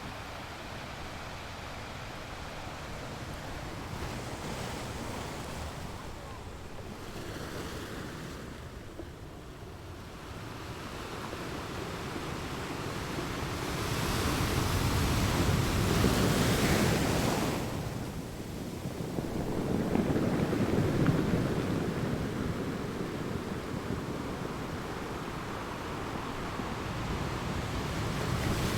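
Sea waves breaking and washing on a shore, the surf swelling and falling back in slow surges, the two loudest about halfway through and a little later, with a steady wind-like rush underneath.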